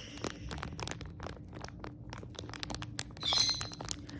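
Plastic packaging bag crinkling and crackling as it is handled. About three seconds in comes a short, high call from a pet bird that is acting up.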